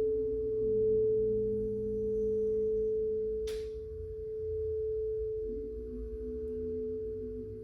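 Singing bowl ringing with one strong steady pitch that swells and eases slowly, with deeper tones beneath it that shift twice. A brief click about three and a half seconds in.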